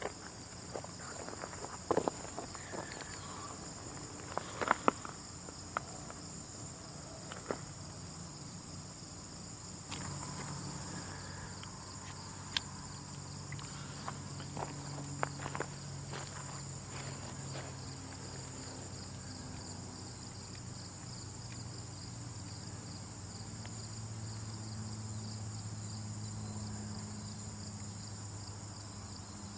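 Ant-colony soundscape: steady high-pitched insect chirring with scattered small ticks and crackles, most of them in the first half. A low hum rises in the second half.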